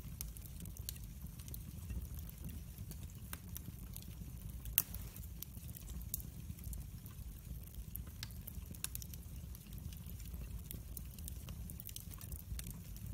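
Fire burning in a fireplace: a steady low rumble with frequent small crackles and one loud pop a little under five seconds in.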